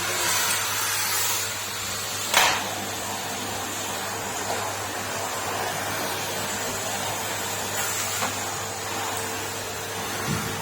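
Numatic Henry vacuum cleaner running steadily, with a sharp knock about two seconds in.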